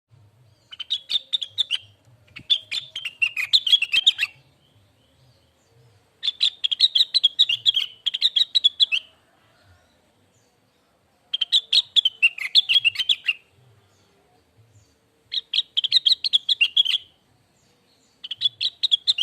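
Cucak wilis leafbird singing: six phrases of rapid, twittering chatter, each one to three seconds long, with short pauses between them.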